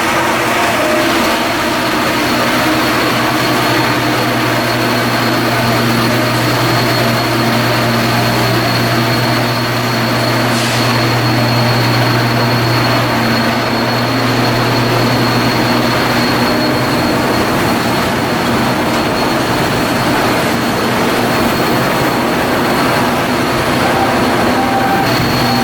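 Shipyard machinery running steadily: a loud, continuous low drone with a thin, steady high whine over it.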